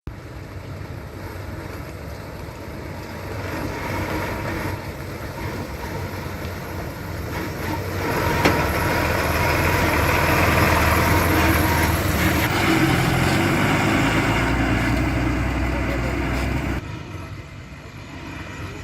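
Engines of heavy earthmoving machinery running, louder in the middle stretch, with a single sharp knock about eight and a half seconds in.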